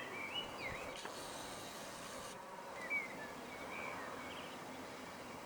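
Songbirds singing in short chirps and warbling phrases over steady faint background noise.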